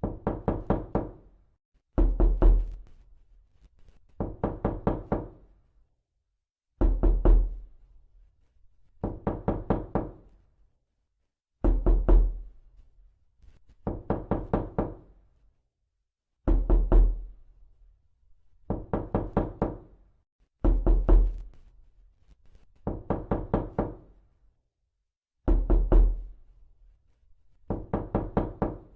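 Knocking in quick bursts of about five or six raps, one burst roughly every two seconds, with silence between.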